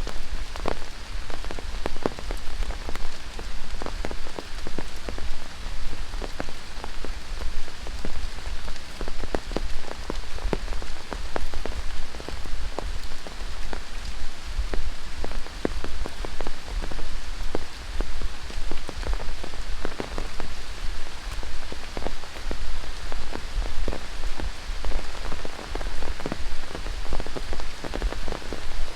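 Steady rain falling in tropical rainforest: a constant hiss with many close drops landing as separate, irregular taps.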